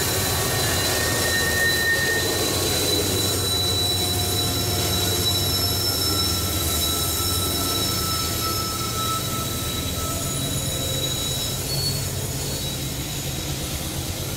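Coal hopper cars of a freight train rolling past on a curve, a steady low rumble with the steel wheels squealing in several thin high tones that fade in and out.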